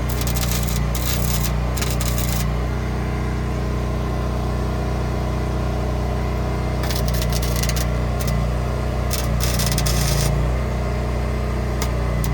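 Electric welding arc crackling in bursts of a few seconds each, starting and stopping, over a steady low hum.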